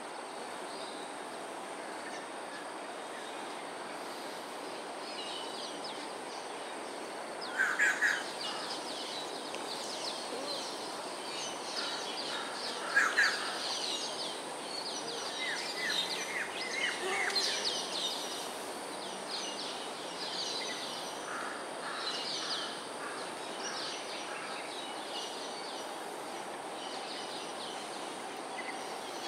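Bird calls: many short high chirps, with two louder calls about eight and thirteen seconds in, over steady outdoor background noise and a thin, steady high whine.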